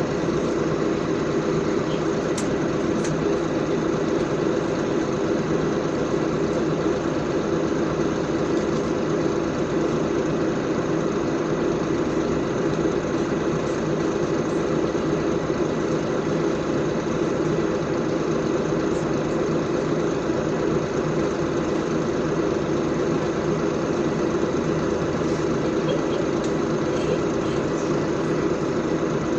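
LiAZ 5292.65 city bus heard from inside the passenger cabin: a steady engine drone that holds level throughout, with a few faint light ticks.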